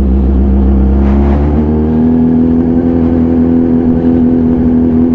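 Yamaha YZF-R6's inline-four engine running under way through an SC-Project exhaust, a steady note that rises a little about two seconds in and then holds.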